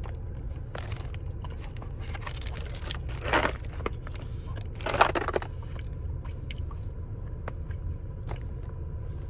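Biting into and chewing a Charleston Chew, a chocolate-covered nougat candy bar, with two louder bites about three and five seconds in and small mouth clicks between, over a steady low rumble.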